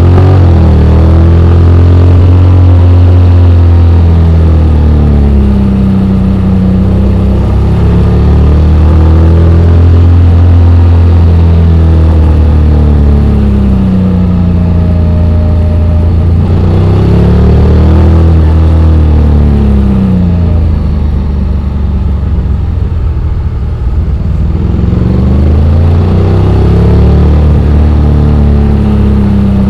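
Honda X-ADV 750's parallel-twin engine running under way, its revs rising and falling several times over a steady low drone.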